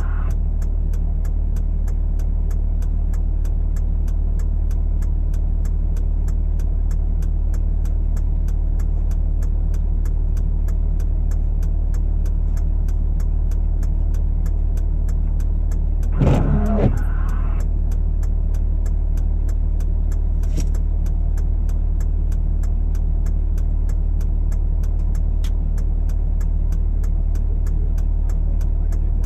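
Truck engine idling steadily, an even low hum that holds at one speed.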